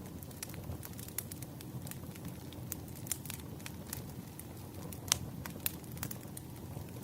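Bonfire crackling: a steady low rumble of burning wood with irregular sharp pops and snaps, the loudest pop about five seconds in.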